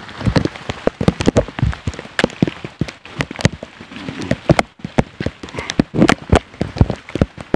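Heavy rain: a steady hiss with many irregular, sharp drops striking close to the microphone.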